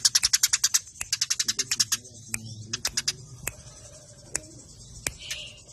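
Eurasian tree sparrows chattering in fast runs of sharp, high chirps, about ten a second, in two bursts during the first two seconds. After that come scattered single chirps.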